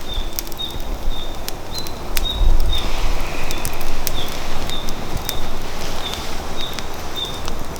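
Firewood burning in a fire pit, crackling with irregular sharp pops, over the low rumble of wind on the microphone that swells a few seconds in. A short high chirp repeats about twice a second throughout.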